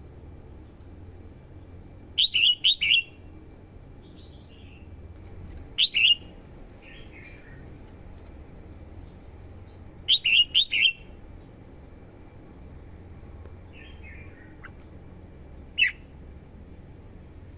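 Red-whiskered bulbul singing: short bursts of three or four quick whistled notes every few seconds, with fainter single phrases in between, over a low steady hum.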